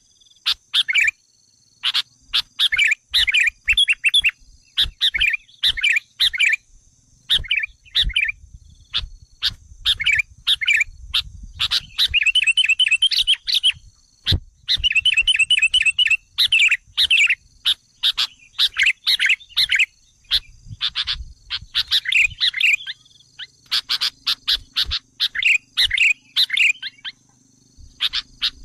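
Sooty-headed bulbul calls: rapid, repeated bubbly chirping phrases, with fast runs of quickly repeated notes about twelve and fifteen seconds in, over a faint steady high whine. This is a bird-trapping lure call meant to provoke wild bulbuls.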